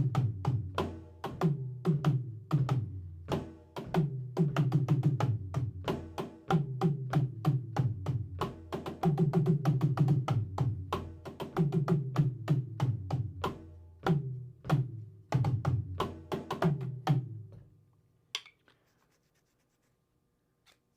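Drum kit played in repeating phrases of quick strokes, the low drums ringing under sharp stick hits. The playing stops about three-quarters of the way through, leaving only a few faint clicks.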